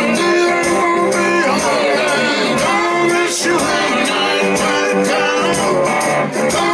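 Live blues-rock band playing, with singing.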